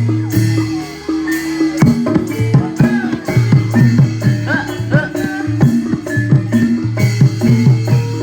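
Live Javanese gamelan-style music accompanying a barongan dance: drums and struck metallophones playing a busy repeating pattern, with a short lull about a second in before the full ensemble strikes back in.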